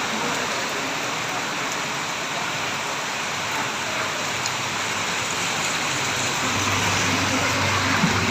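Heavy rain falling steadily, a dense even hiss. Past the middle, a low steady engine hum comes in under the rain.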